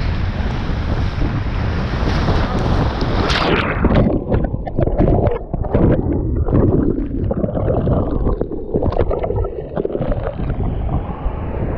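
Wind buffeting the microphone and water splashing and sloshing around a sea kayak. From about four seconds in, the sound turns duller and choppy.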